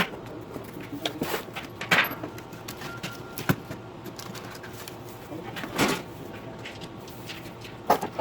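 Scattered knocks and clatter of grill parts and tools being handled during assembly, about five sharp knocks over the stretch, played back sped up.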